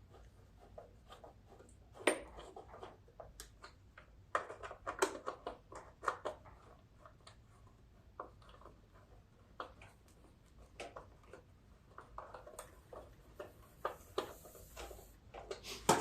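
Irregular small clicks and scrapes of a hand screwdriver driving Phillips screws into the mower engine's parts, with occasional sharper knocks of tool on metal or plastic.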